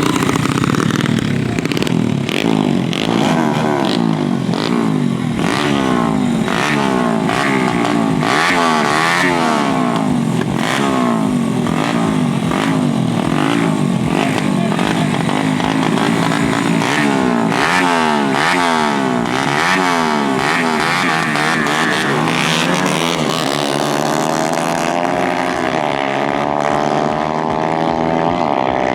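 Dirt-bike engines revving hard, their pitch climbing and dropping again and again as they wind up and shift. From about three-quarters of the way in, a steadier engine note takes over.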